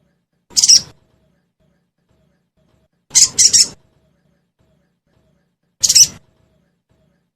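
Sogon bird calling in short, harsh, high chirps: a single call, then a quick double call, then another single call, with pauses between. This is a lure recording used to get a kept sogon to answer and start singing.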